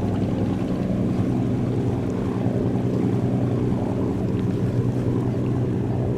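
Boat engine running steadily: an even, low drone with no change in pitch or level.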